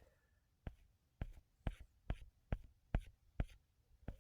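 Short, sharp taps or knocks in a steady rhythm, a little over two a second, each with a dull low thud beneath it.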